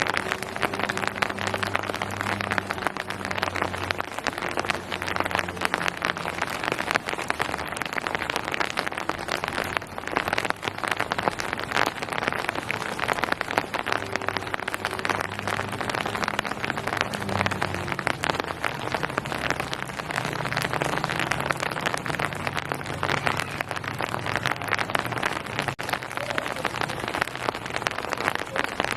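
Steady rain falling on surfaces: a dense, even patter of countless drops. A faint low hum comes and goes underneath it.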